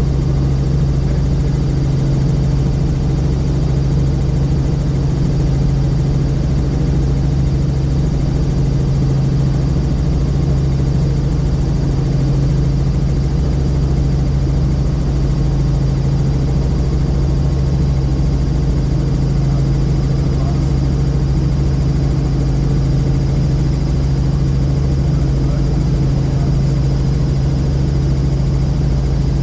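Helicopter cabin noise in steady cruise: the rotor and turbine engine drone evenly with a deep hum and rumble, under a faint steady high whine.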